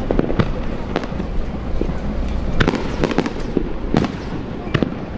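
Aerial fireworks shells bursting: about six sharp bangs at uneven intervals over a low continuous rumble.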